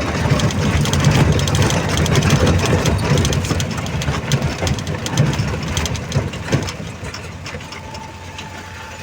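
Safari vehicle's engine running as it drives, with frequent rattling knocks from the body; the sound eases off about seven seconds in.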